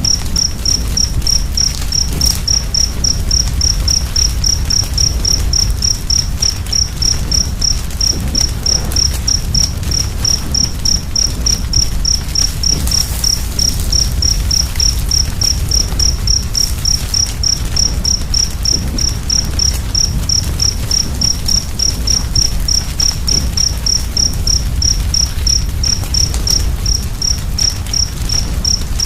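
A cricket chirping steadily, about three short high chirps a second, over a low steady rumble of a fire, with a few faint crackles.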